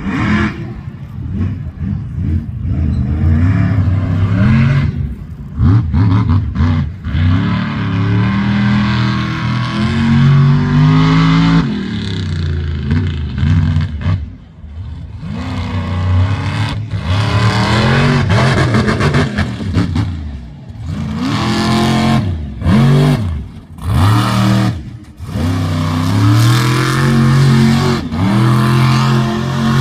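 Monster truck engine revving hard over and over, the pitch climbing and falling with each stab of the throttle, with a few short lulls between runs.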